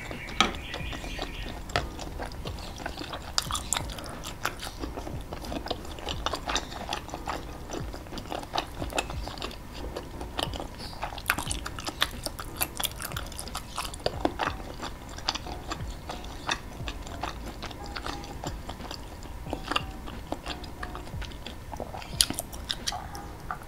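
A person chewing skewered meatballs (bakso tusuk) coated in thick spicy red sauce, close to the microphone: a steady, irregular run of small clicks and mouth sounds.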